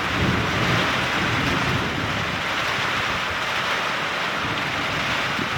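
Steady rain falling, a continuous even hiss, as a severe thunderstorm winds down. A low rumble sits underneath for the first couple of seconds.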